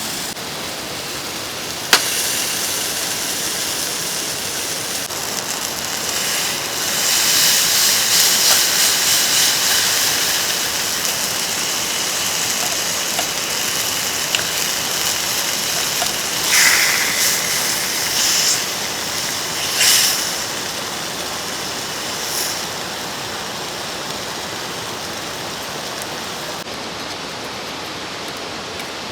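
Steady rush of a flowing mountain stream, with a sharp click about two seconds in and a few brief louder bursts of noise in the middle.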